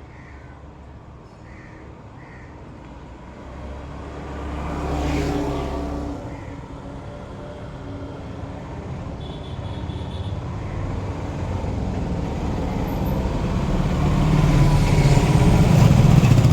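Road traffic noise. A vehicle swells past about five seconds in, then a low rumble builds steadily louder toward the end.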